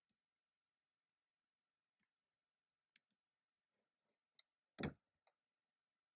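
A few scattered, isolated keystrokes on a computer keyboard, single clicks with gaps of about a second between them, and one louder, deeper thump about five seconds in.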